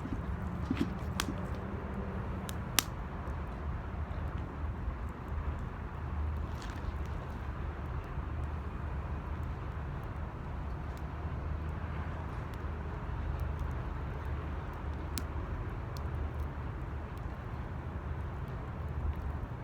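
Wood fire burning in an 18-litre square metal can: a steady low rush with a few sharp pops and crackles scattered through it.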